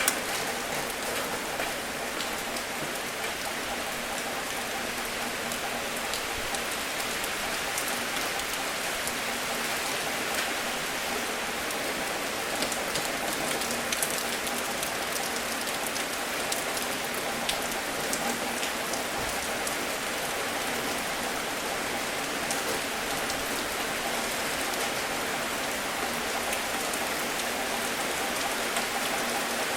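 Steady rain falling, a continuous hiss with many small distinct drop ticks on a hard surface.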